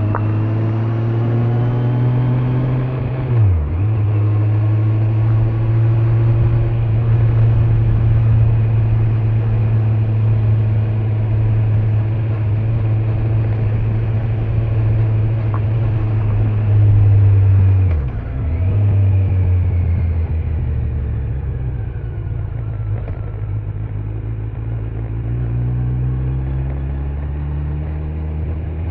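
Kawasaki Z900's inline-four engine running at steady road speed, with road noise, heard from the rider's backpack. The engine note dips sharply and comes straight back twice, about three and a half seconds in and again near eighteen seconds, then climbs slowly near the end.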